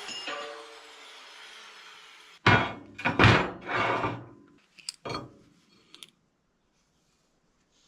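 Heavy metal parts being handled on a shop bench: a cluster of loud clunks about two and a half seconds in, then a few lighter knocks. A faint whir fades away at the start.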